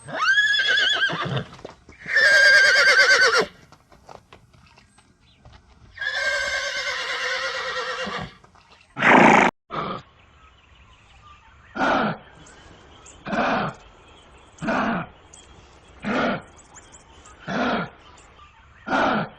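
Horse whinnying three times, the calls pitched and trembling, then a different animal call: two loud short blasts followed by a regular series of short calls about one and a half seconds apart.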